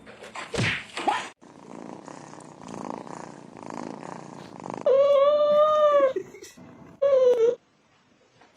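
A domestic cat purring, then two meows: a long drawn-out one about five seconds in and a shorter one about two seconds later. The meows are the loudest sounds.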